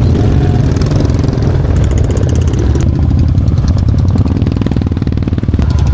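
Royal Enfield Bullet motorcycle's single-cylinder engine running at a steady idle, loud and even.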